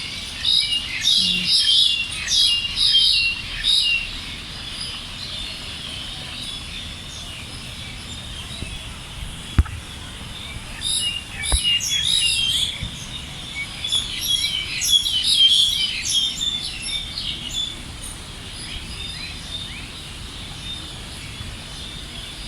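Songbirds chirping and twittering, many quick calls overlapping in two lively spells, with quieter stretches between. Two sharp clicks sound in the middle.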